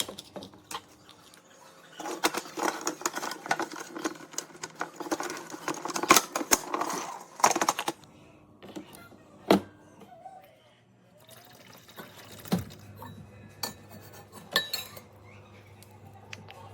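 Kitchenware being handled: a dense run of clinks and clatter with some liquid noise for several seconds, then scattered knocks.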